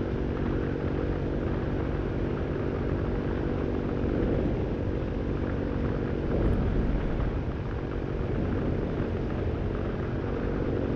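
Vittorazi Moster 185 single-cylinder two-stroke paramotor engine and propeller running steadily in flight. Its pitch wavers briefly about midway.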